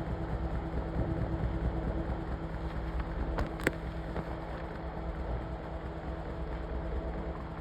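Washing machine running with a steady motor hum and low rumble, with a single sharp click about three and a half seconds in.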